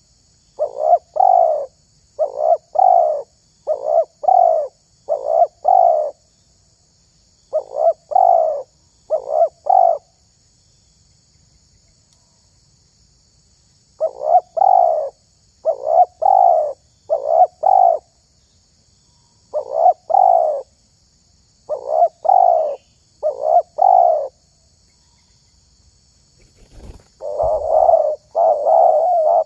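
Spotted dove (tekukur) cooing in repeated phrases of short, paired coo notes, with two pauses of a few seconds. Near the end a louder, faster run of coos begins, just after a brief low thump.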